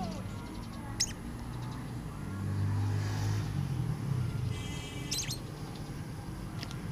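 A lovebird giving a few short, sharp chirps, about three, spaced out over several seconds, over a steady low background hum.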